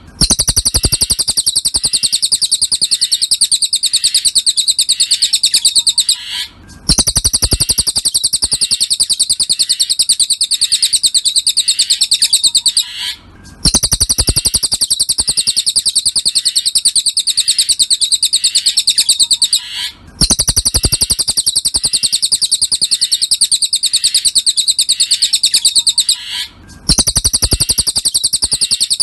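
Looped recording of a cililin's song used as a masteran for training songbirds: fast, unbroken runs of high chattering notes. Each run lasts about six and a half seconds and is cut by a brief gap before it starts over, four gaps in all.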